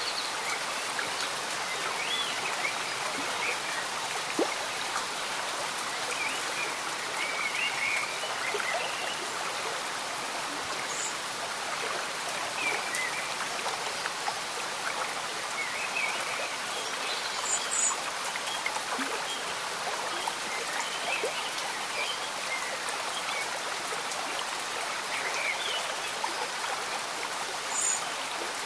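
Slow-moving stream bubbling and gurgling under a steady patter of gentle rain, with a few brief high chirps now and then.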